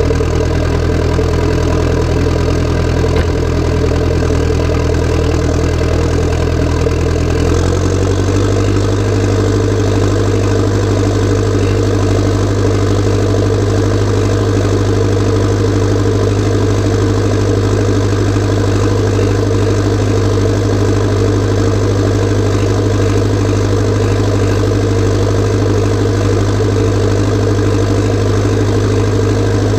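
Massey Ferguson 590 tractor's four-cylinder Perkins diesel, turbocharged and straight-piped, running steadily. About eight seconds in, the engine note steps up to a slightly higher speed and holds there.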